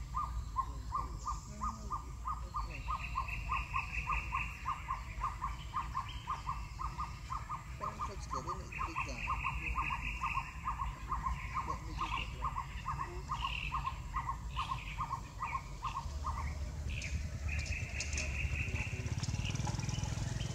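Bird calls: one short mid-pitched note repeated evenly about four or five times a second, stopping about 16 seconds in, with three short bursts of a faster, higher trill over it.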